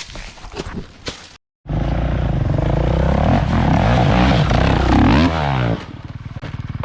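Dirt bike engine revving hard, starting abruptly about a second and a half in, its pitch rising and falling for about four seconds. It then drops back to a quieter, rapid, even putter near the end.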